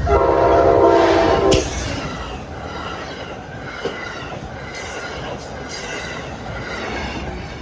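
A train horn sounds a loud chord for about a second and a half, then fainter high-pitched squeals come and go.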